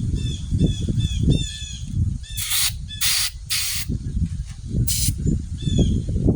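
Aerosol can of ether starting fluid sprayed into a small Honda four-stroke engine in four short hissing bursts, three close together about two and a half seconds in and one more near five seconds. A bird chirps over and over, and a low rumble sits underneath.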